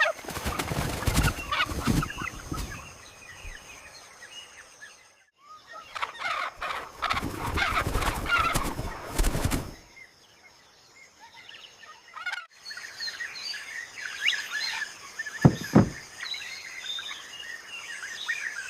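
Parrots squawking and chattering in two loud, harsh stretches, then a run of quieter, shorter chirps over a steady high hum, with a thump about three-quarters of the way through.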